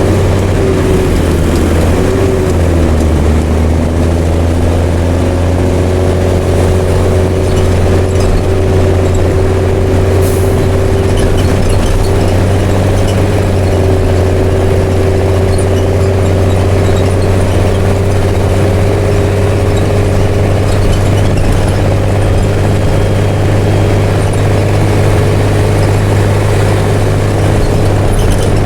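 Mercedes-Benz OM366LA turbo-diesel inline-six of a city bus running steadily through an open, straight-piped exhaust. Its pitch drops briefly about two to three seconds in, then holds steady.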